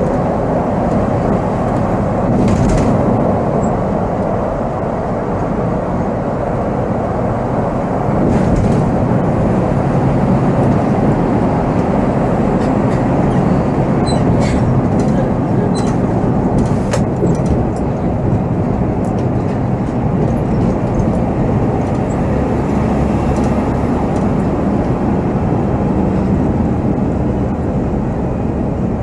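Volvo B7R coach's six-cylinder diesel engine running while the bus drives, with steady road and cabin rumble and a few light clicks and rattles about halfway through.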